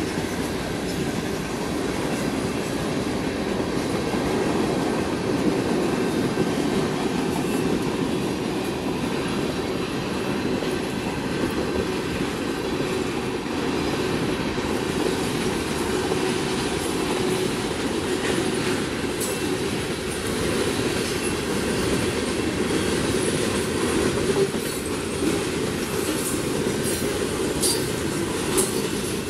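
Canadian Pacific mixed freight train rolling past at close range: a steady rumble of steel wheels on the rails, with a few sharper clicks in the second half.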